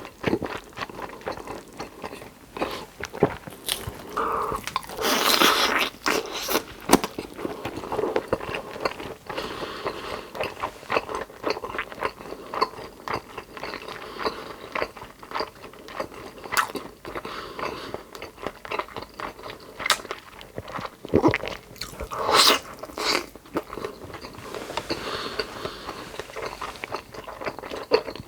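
Close-miked eating: a person biting and chewing crunchy food with loud crunches and wet mouth sounds, the biggest bites about five seconds in and again around twenty-two seconds.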